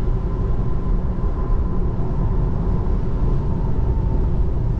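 Steady road and tyre noise inside the cabin of a Tesla Model 3 driving in the rain, a low even rumble with a faint steady whine above it and no engine sound.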